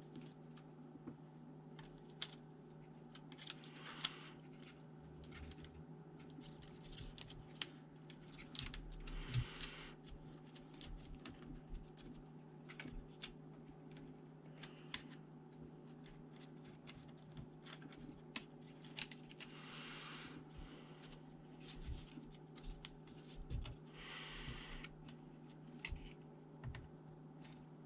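Scattered light clicks and taps with a few short scraping or brushing sounds, from hands working on a ThinkPad T400 laptop's parts, over a steady low hum.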